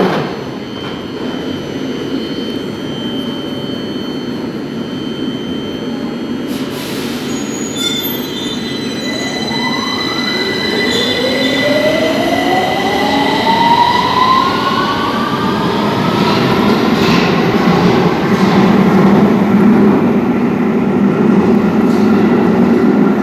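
London Underground Victoria line train pulling away, its traction motors whining in several tones that rise steadily in pitch as it accelerates. It grows louder toward the end, with some wheel squeal.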